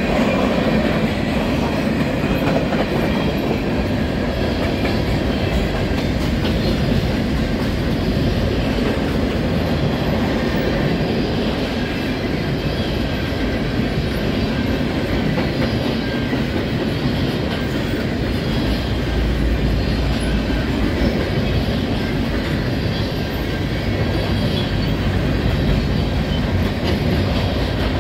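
Covered grain hopper cars of a freight train rolling past, a steady rumble of steel wheels on the rails with some clickety-clack.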